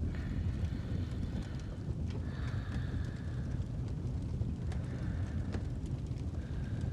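Wood fire crackling in a fireplace, scattered small pops and clicks over a steady low rumble.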